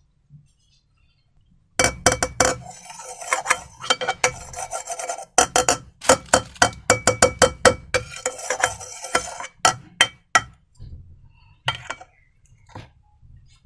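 Slime being worked and stirred in a container: a fast run of sticky clicks and crackles with a faint ring, from about two seconds in to about ten seconds, then a few scattered clicks.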